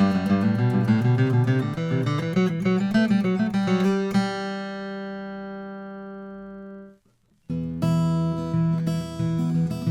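Martin 00-15M all-mahogany acoustic guitar being played: a run of notes, then a chord left to ring and fade for about three seconds before it is cut off. After a short silence the playing starts again.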